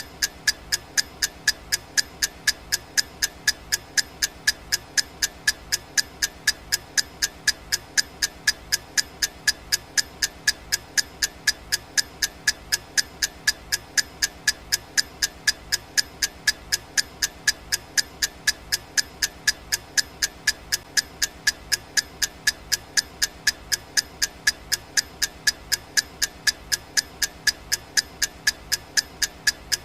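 Clock-ticking sound effect of a countdown timer: sharp, evenly spaced ticks, about three a second, over a faint steady background hiss.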